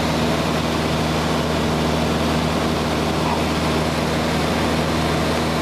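Cessna 172's piston engine and propeller running steadily at constant power, with a loud rushing noise underneath.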